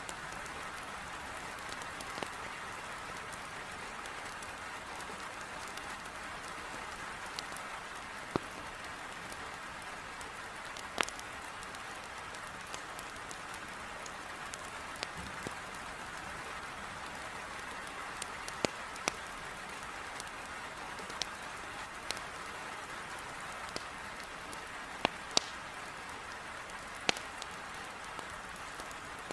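Heavy rain hitting a window as a steady hiss, with scattered sharp pops and crackles from burning firewood in a fireplace.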